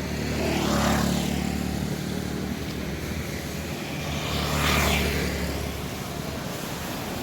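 A motor vehicle engine running steadily as a low hum, with two swells of passing noise that peak about a second in and again at about five seconds.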